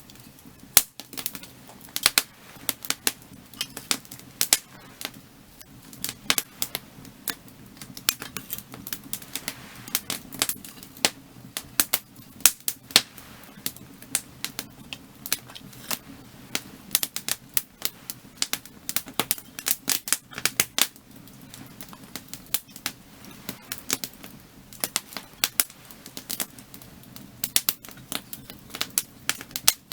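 Burning firewood crackling and popping, with many irregular sharp snaps over a steady low background of the fire.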